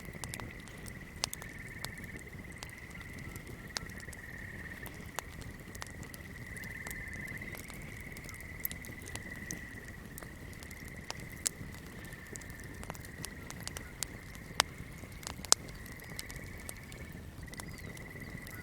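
Swamp night ambience: a steady, high-pitched chorus of calling creatures, with scattered crackles and pops of a fire. Two sharper pops stand out past the middle.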